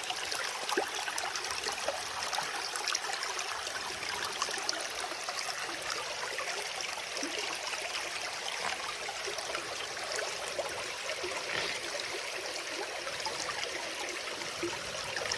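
Creek water running fast through an Angus MacKirk sluice box: a steady rush of water with small splashes.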